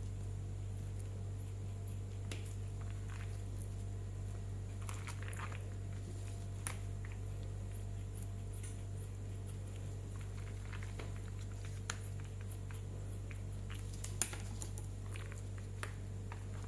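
Scattered soft clicks and taps of hands and utensils handling food, over a steady low hum.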